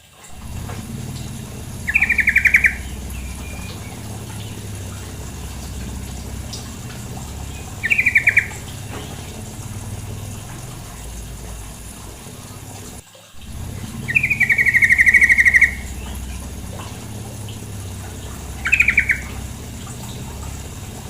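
Female yellow-vented bulbul giving four short, rapid trilled chattering calls, the third one longer, over a steady background of running water.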